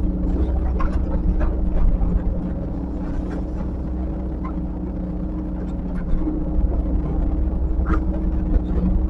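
Heavy earthmoving machine's diesel engine running steadily, with scattered clanks and knocks over it. The loudest knock comes near the end.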